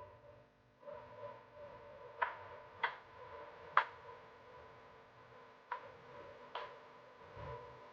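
Five sharp clicks or knocks at irregular spacing, the loudest about halfway through, over a faint steady hum.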